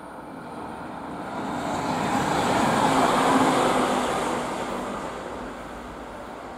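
Electric train passing close by: the rumble and hiss of its wheels on the rails swell to a peak about three seconds in and then fade as it moves away.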